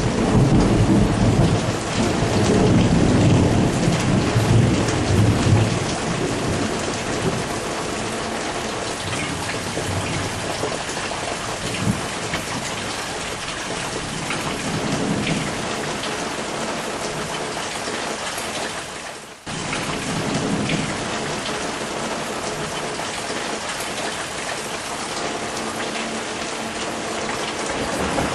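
Thunderstorm: steady heavy rain with rolling thunder, loudest over the first six seconds, then fainter rumbles later on. The sound briefly drops out about two-thirds of the way through.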